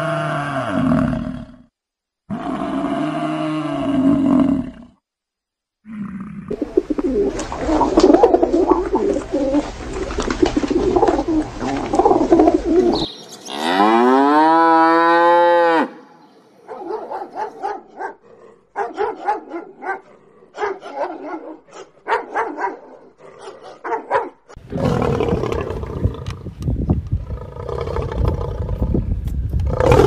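Cattle mooing: two low pitched calls at the start, and in the middle a long moo that rises and falls in pitch. Between them come a dense noisy stretch and then short irregular sounds, and the last few seconds are a rough, noisy animal call.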